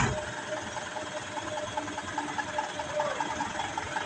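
Diesel truck engine running under load with a fast, even pulsing, after a short knock right at the start.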